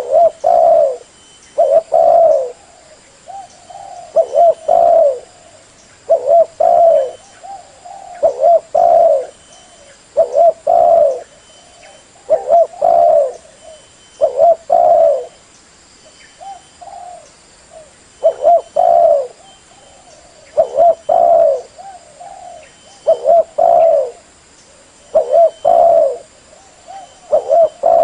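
Female spotted dove cooing in short phrases of two or three notes, repeated about every two seconds. It is a lure call for drawing wild doves to a trap.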